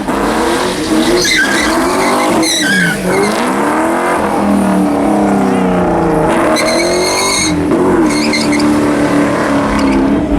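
A car engine revving hard, its pitch rising and falling again and again, over the steady hiss of tyres spinning and skidding on pavement as the car does donuts. A high tyre squeal comes in about two-thirds of the way through.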